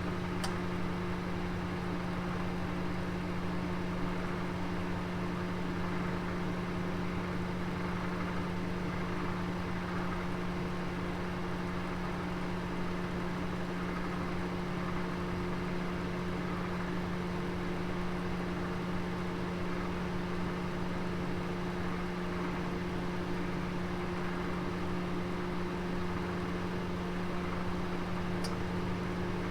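Oven running with a roast inside: a steady low electrical hum over the even whoosh of its fan. A faint tick comes just after the start and another near the end.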